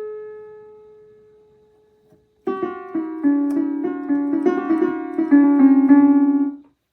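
Donner DDP-60 digital piano being played: a note dies away over about two seconds, then a short run of notes begins and ends in quick repeated notes before stopping abruptly near the end.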